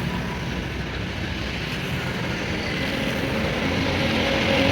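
Machinery running steadily, a continuous low mechanical drone, with a few steady tones joining in during the last second or two.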